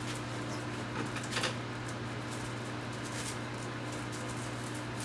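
A steady low hum with a few faint brief rustles and clicks, the clearest a little over a second in.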